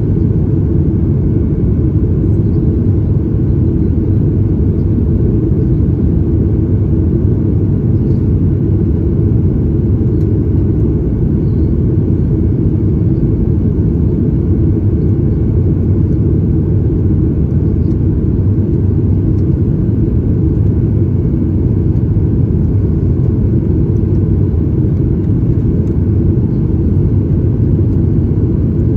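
Steady low rumble of a Boeing 737 MAX 8's engines, heard from inside the passenger cabin.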